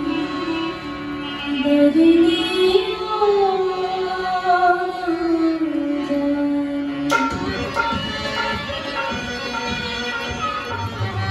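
Rajasthani folk music: a sliding, held melody line over tabla drumming, the sarangi and tabla accompanying the performance. The music changes abruptly about seven seconds in.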